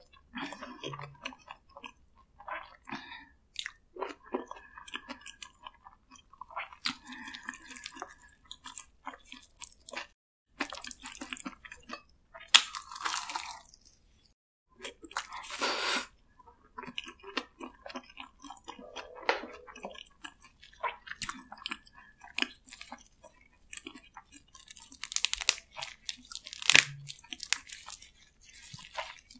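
Close-miked chewing and crunching as spicy marinated raw crab and white rice are eaten, in irregular bursts with sharp clicks and a couple of brief pauses.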